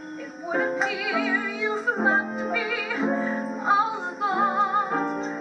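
A woman singing a sad vaudeville ballad, holding notes with a wide vibrato over instrumental accompaniment.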